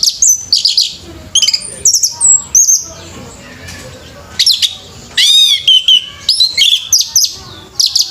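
Orange-headed thrush singing: loud, rapid runs of sweeping whistled notes, pausing for about a second and a half in the middle before starting again.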